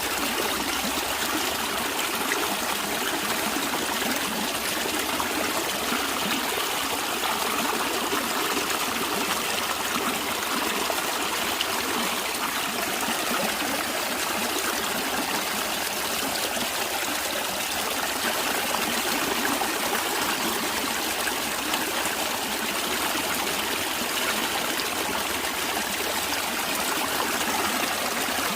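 Stream water flowing and trickling over rocks, a steady rushing hiss with no change.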